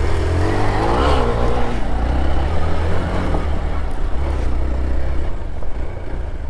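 A vehicle engine running under way with a steady low rumble, its pitch shifting briefly about a second in.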